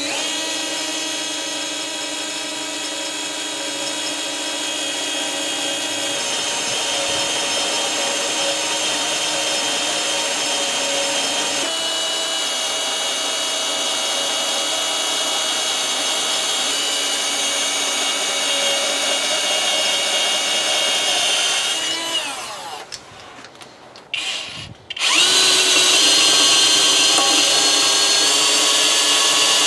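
Handheld electric power tool running at a steady speed, then switched off about three-quarters of the way through so that it winds down, and started again a few seconds later with a brief rise in pitch.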